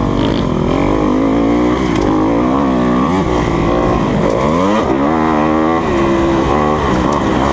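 2020 Kawasaki KX250F's four-stroke single-cylinder engine being ridden hard, its pitch climbing and dropping again and again with the throttle and gear changes.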